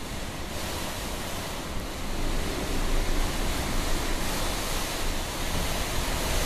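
Typhoon wind blowing hard in surging gusts, growing stronger about two seconds in, with wind buffeting the microphone.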